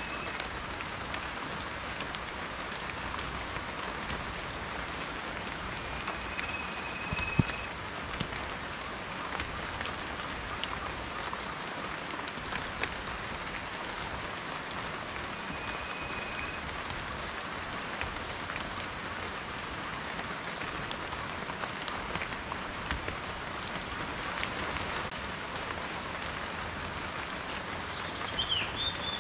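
Steady rain falling, a dense hiss with individual drops ticking on a surface, and one sharper drop hit about seven seconds in.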